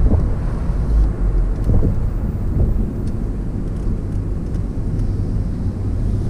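Porsche Boxster's mid-mounted flat-six running as the car drives slowly, with road noise coming into the open cabin.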